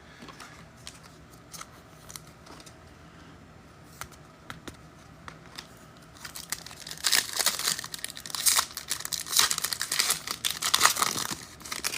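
A football trading-card pack's foil wrapper being torn open and crinkled in the hands, starting about halfway through after a few seconds of small clicks and handling taps.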